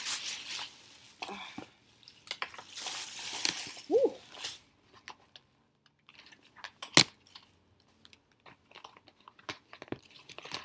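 A person eating close to the microphone: crunchy chewing bites through the first four seconds or so, with a short "mm" hum near four seconds. Then quieter, with small scattered clicks and one sharp loud click about seven seconds in.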